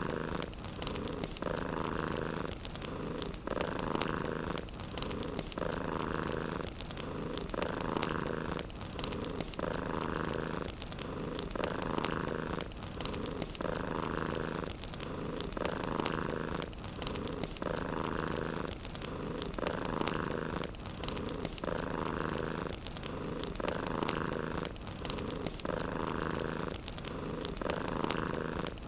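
Domestic cat purring steadily, swelling and easing in a slow breathing rhythm about every two seconds. Light crackling from a wood fire runs underneath as scattered sharp clicks.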